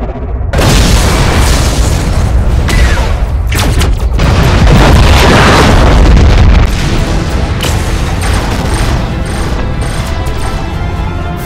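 Loud cinematic explosion booms and deep rumble layered over music, with several sudden hits and a big swelling boom that cuts off sharply about two-thirds of the way through; held musical tones carry on over a lower rumble near the end.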